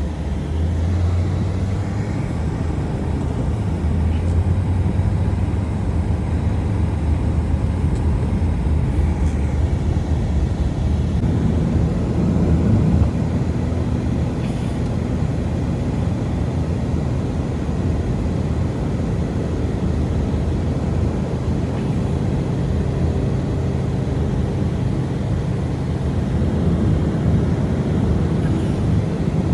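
Steady low rumble with a droning hum, holding at an even level throughout.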